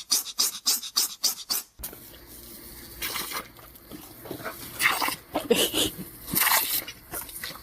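A dog panting fast, about five breaths a second, which breaks off about two seconds in; then a dog's irregular sounds from another clip.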